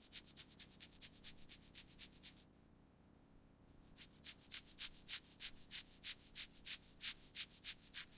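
Rhythmic scraping strokes, about three a second, in two runs with a pause of a second or two between them. The second run is slightly louder.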